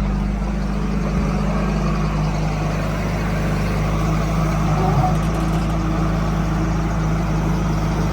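Heavy diesel engine of farm or earthmoving machinery running steadily at an even speed, with a constant low hum and no revving.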